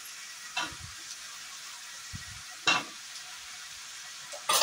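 Onion and tomato masala frying in a pan with a steady sizzle, flaring into three louder sizzle bursts about two seconds apart as wet potato pieces are dropped into the hot pan.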